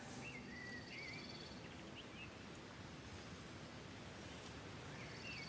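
Quiet outdoor ambience with a faint hiss, and a bird's short warbling chirps in the first couple of seconds and again near the end.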